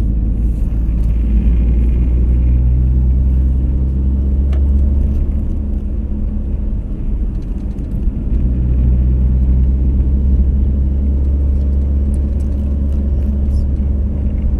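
Vehicle engine and road rumble heard while driving, a steady heavy low rumble with an engine hum that eases off for a moment about seven seconds in and then picks up again.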